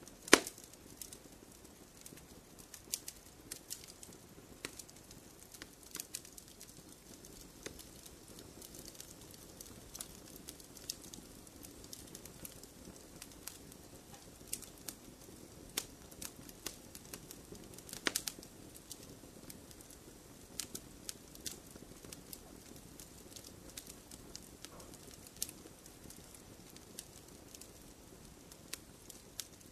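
Logs burning in a fireplace: scattered sharp crackles and pops over a soft, low rush of flame, with a loud pop right at the start and another about 18 seconds in.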